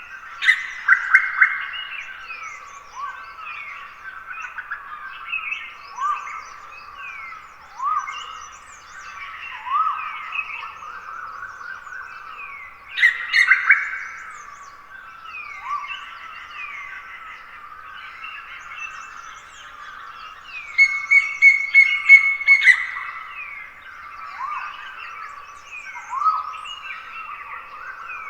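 Dawn chorus of many wild forest birds, a dense overlapping mix of short sweeping chirps and calls. Louder bursts of calling come about a second in, around the middle, and for a couple of seconds near three quarters of the way through, where one bird holds a steady high note.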